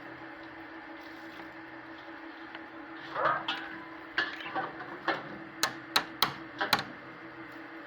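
Small parrot making a run of short chirps and sharp clicks, starting about three seconds in, over a steady low hum.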